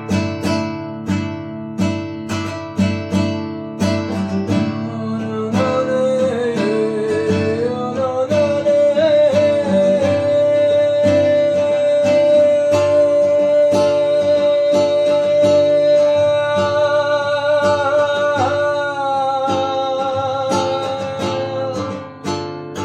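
Acoustic guitar strummed in a steady rhythm, joined about five seconds in by a wordless singing voice that slides and then holds one long wavering note before a higher line comes in near the end.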